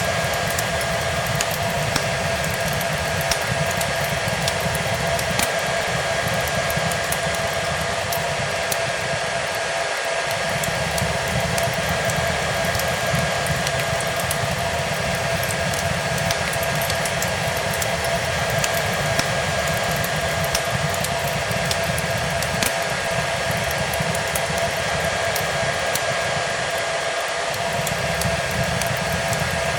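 Hair dryer blowing steadily with a constant motor whine, mixed with the crackle of a wood fire: many small pops scattered throughout.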